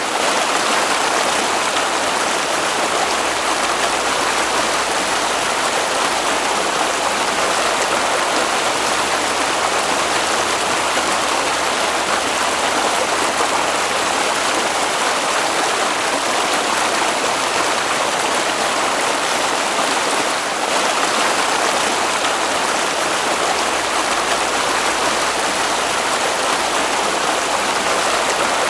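Running water, such as a stream, making a steady, even rush that neither stops nor changes.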